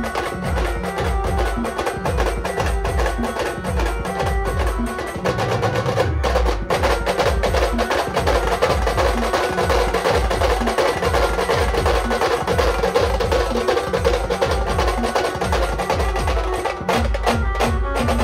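Live band music: dense, fast drumming with deep bass drum beats under a held melody line.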